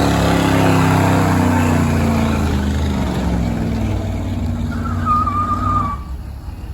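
A stock gasoline pickup truck's engine running hard under load on a truck pull, its revs sliding down as it bogs, with a brief high squeal about five seconds in before the engine sound drops off sharply about six seconds in.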